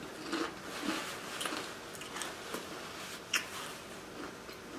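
Close-miked chewing of a taco mouthful: faint, irregular small crunches and clicks, with one sharper click a little over three seconds in.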